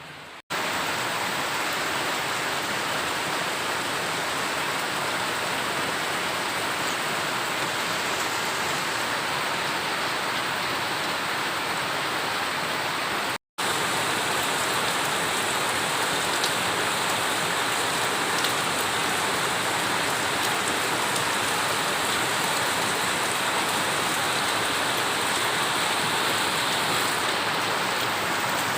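Heavy rain pouring in a steady, continuous hiss. The sound drops out for a split second twice, about half a second in and about 13 seconds in.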